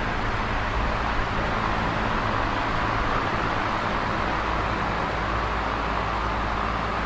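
Electric fan running steadily: an even whooshing of air, with a low motor hum beneath it.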